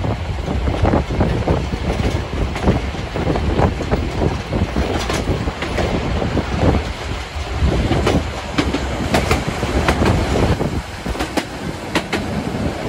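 Harz narrow-gauge steam train running: a steady loud rumble with many irregular clicks and knocks from the wheels and track.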